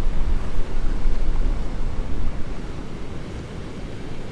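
Gusty wind buffeting the microphone over storm-driven surf washing up the beach. The gusts ease about three seconds in.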